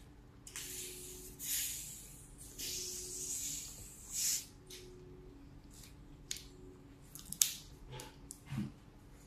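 Close-up mouth sounds of chewing spaghetti: several wet, hissing squishes in the first half, then a few sharp mouth clicks.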